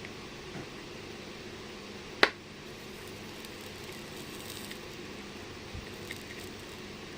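Steady low hum and hiss of a workbench, with one sharp click about two seconds in and two faint ticks near the end, from small tools handled while soldering a chip onto a circuit board.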